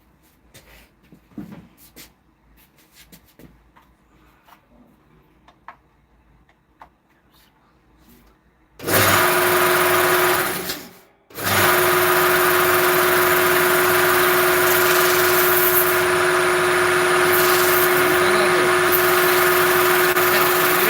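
A few faint handling clicks. Then, about nine seconds in, an electric power tool's motor is switched on, cut off a second and a half later so it winds down, and switched on again, running steadily with a constant whine: a test run on the repair bench.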